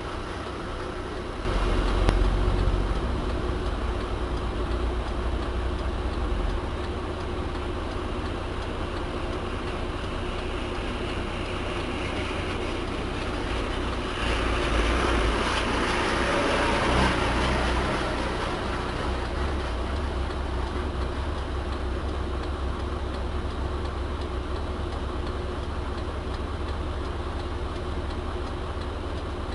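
Heavy diesel engine running steadily, growing louder about a second and a half in and again for a few seconds in the middle.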